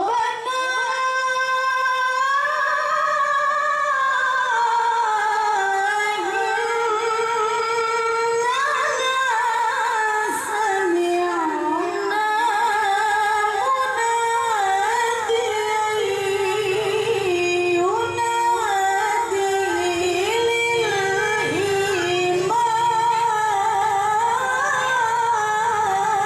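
A woman reciting the Quran in a high, melodious voice. She holds long notes through one extended phrase, with wavering melismatic ornaments.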